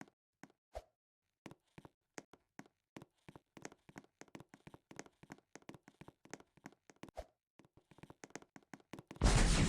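A run of light clicks or taps at uneven spacing, a few each second, with dead silence between them. Near the end, a much louder rushing, noisy sound cuts in suddenly.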